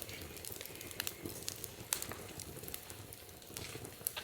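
Wood fire in a fire pit crackling, with sharp pops about once or twice a second over a soft steady hiss of burning.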